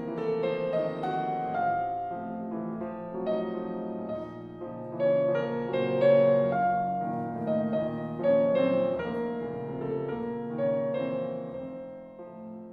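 Piano music: a slow, gentle piece of struck notes and chords.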